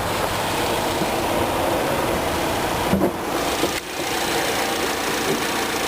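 2008 Chevrolet Cobalt LS's 2.2-litre four-cylinder engine idling steadily, heard with the hood open, with a short knock about three seconds in.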